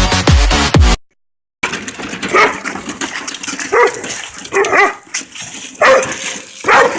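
Electronic dance music cuts off about a second in; after a short silence a dog barks several times.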